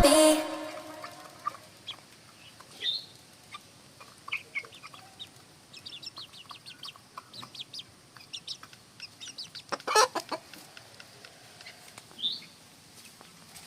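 Aseel chickens clucking in short, scattered calls, with a couple of brief high chirps and one louder sound about ten seconds in.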